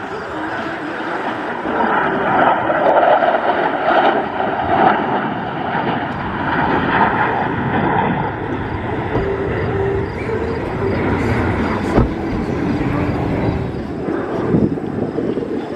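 Jet engine noise from Blue Angels F/A-18 Super Hornets flying a formation manoeuvre. It grows louder about two seconds in and stays loud.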